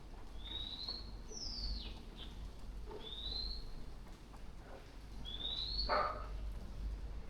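A bird's clear whistles: a short rising whistle repeated about every two seconds, four times, with one falling whistle between the first two.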